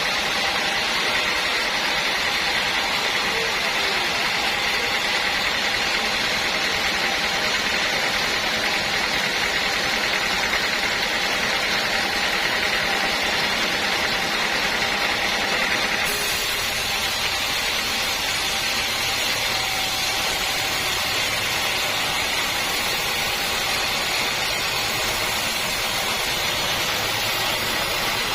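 Sawmill machinery running steadily, a continuous mechanical noise with a steady whine; the sound changes abruptly about halfway through, turning brighter and hissier.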